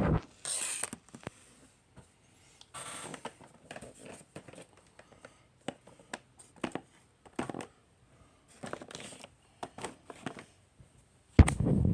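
Handling of a model truck's packaging box: scattered rustles, scrapes and clicks with short quiet gaps between them.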